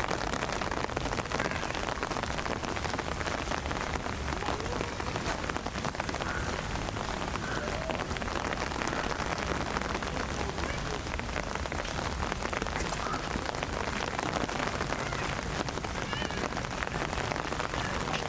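Steady rain falling, with a dense, even run of individual drop ticks.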